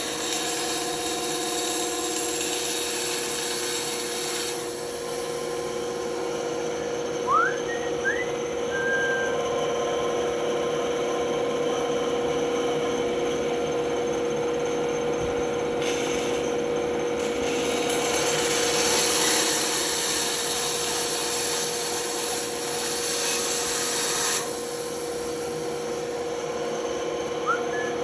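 Power tool running steadily with a constant hum as it works wood; its sound shifts a few times, about four seconds in and again past the middle.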